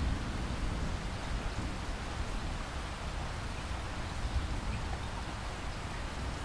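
Steady rain falling: an even hiss with a low rumble beneath it.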